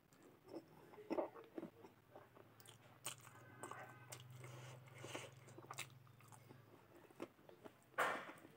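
Close-miked eating: wet chewing and crunching of a mouthful of rice and mutton curry, with sharp crunches about a second in and again near the end. A low steady hum runs through the middle for about four seconds.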